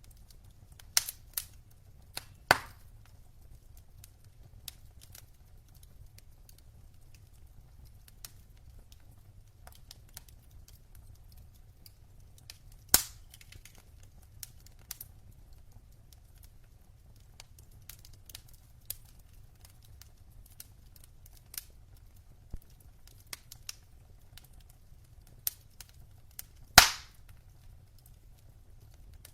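Burning logs in a fireplace crackling: scattered small ticks and a few loud sharp pops over a faint low rumble, the loudest pop near the end.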